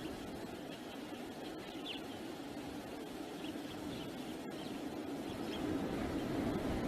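Wind buffeting the outdoor camera microphone: a steady low rumbling hiss that grows louder near the end.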